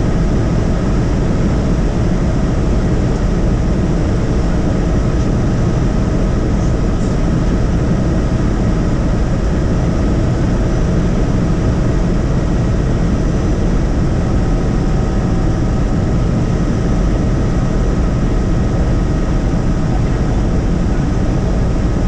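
Helicopter in flight, heard from inside the cabin: a loud, steady drone of engine and rotor with a few faint, steady whining tones over it.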